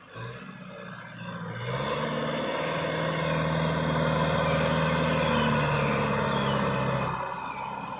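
Kubota tractor engine revving up about two seconds in and holding at high revs under load for about five seconds, then easing off near the end.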